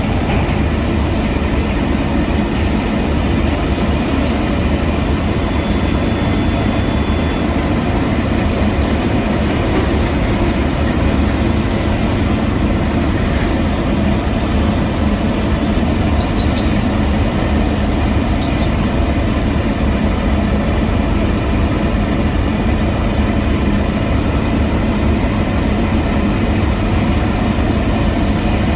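Heavy road-construction machinery running steadily: a deep, even engine rumble with no break.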